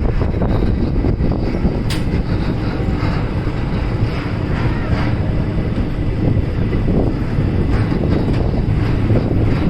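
Indian Railways passenger train running, heard from aboard the coach: a steady low rumble with wind buffeting the microphone. A sharp click about two seconds in.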